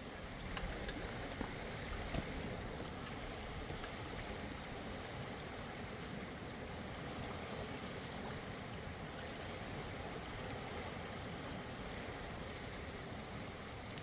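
Mountain river flowing: a steady, even rush of water with no breaks.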